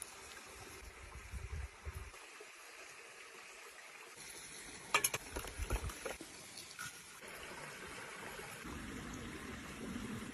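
Faint moving water, a soft steady wash, with a few light clicks about five seconds in.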